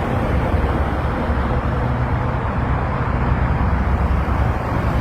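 Steady motor-vehicle engine hum and traffic noise, with no sudden events.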